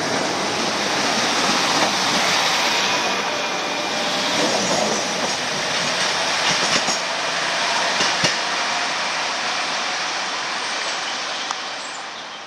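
A diesel multiple unit train running past, with a steady rumble and hiss, and a few wheel clicks over rail joints. The sound fades away near the end.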